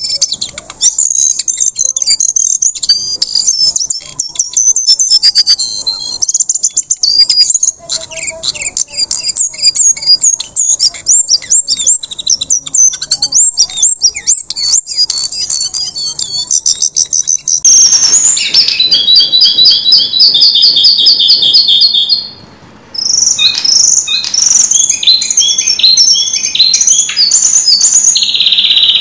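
Lesser shortwing (jongkangan, cingcoang coklat) singing a fast, continuous, high-pitched song of rapid chirps and trills. The recording changes abruptly about two-thirds of the way through, and there is a short gap soon after.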